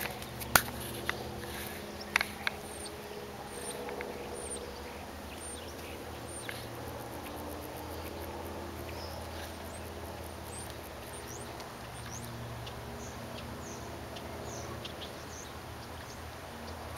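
Outdoor desert ambience with faint, short, high chirps of small birds scattered irregularly, over a steady low hum. A few sharp clicks sound in the first couple of seconds.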